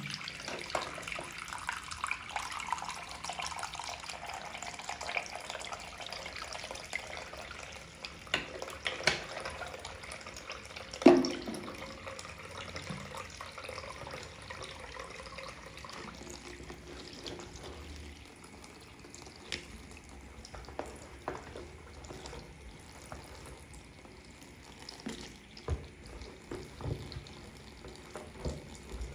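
Water running from a tap into a sink as a makeup sponge is soaked and squeezed, with wet squelches and small clicks throughout. The running water is fuller in the first several seconds, and a single sharp loud knock comes about eleven seconds in.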